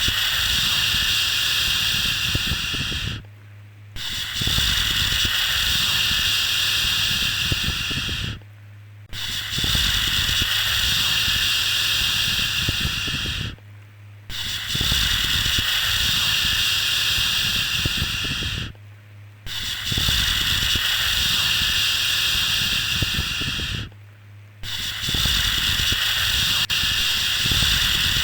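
A long, steady "shhh" shushing sound, repeated about every five seconds with a short pause between each shush.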